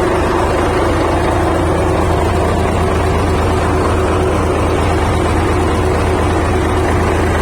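Bulldozer's diesel engine running at a steady speed, just after its valve clearances were adjusted.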